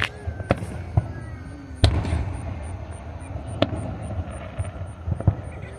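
Aerial firework shells bursting: about six sharp bangs at uneven intervals, the loudest about two seconds in, over a low rumble.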